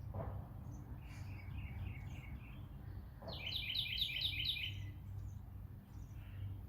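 Wild birds chirping: a soft run of repeated chirps about a second in, then a louder, quicker series of about eight notes from about three seconds in, over a steady low rumble.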